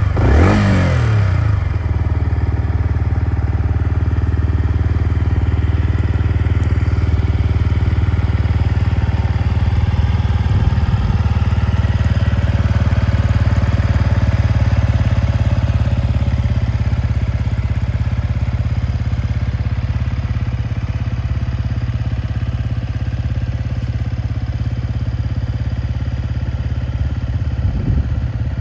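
Yamaha MT-125's single-cylinder four-stroke engine, breathing through an aftermarket BEAMS muffler, falls back from a quick rev in the first second and then idles steadily.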